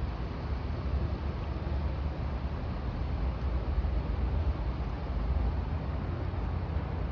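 Steady low rumble of a passing ship's engines.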